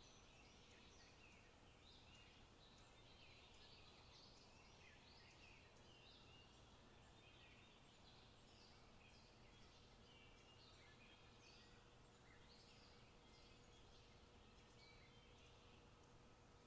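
Faint forest birdsong: many short chirps and trills from several songbirds, close after one another, over a low steady background hiss.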